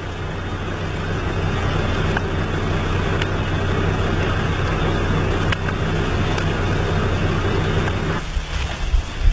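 Steady motor drone, like an engine running, with a few faint clicks; the lower part of the sound drops away about eight seconds in.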